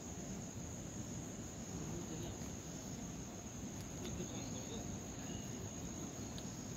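Insects trilling in one continuous high-pitched tone, over a steady low rumble.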